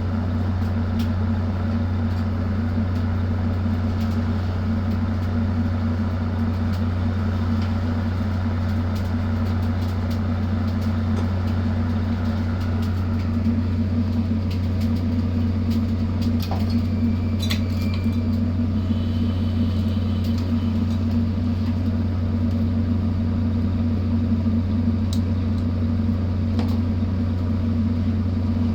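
Ship's engine running with a steady, unchanging low drone, heard from aboard the vessel, with a few faint clicks partway through.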